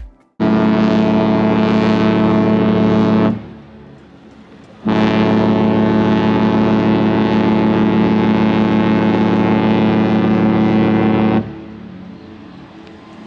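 Cruise ship's horn sounding two long blasts, the first about three seconds and the second about six and a half, a steady deep tone with many overtones.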